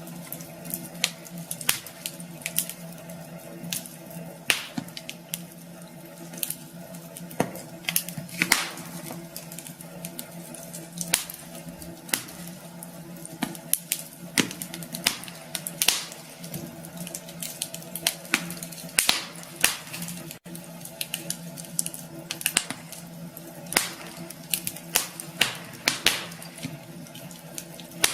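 Wood fire crackling in a fireplace: irregular sharp pops and snaps over a steady low hum. The sound cuts out for an instant about twenty seconds in.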